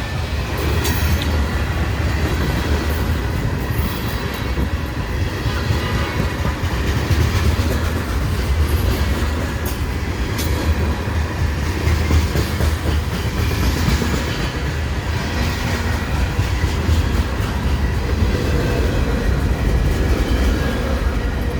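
Freight train cars, tank cars among them, rolling steadily past close by: a loud, continuous rumble of steel wheels on the rails, with a few brief sharp clicks.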